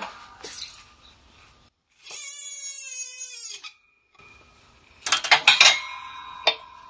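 Metal tools clinking and tapping against steel parts, a quick run of ringing clinks about five seconds in. Earlier, a short held pitched tone of about a second and a half sits between two moments of dead silence.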